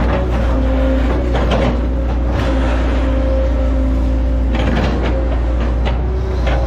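Hitachi ZX110 excavator's diesel engine running under load, with a hydraulic whine that comes and goes and irregular cracks and knocks from the machine working through oil palm trunks.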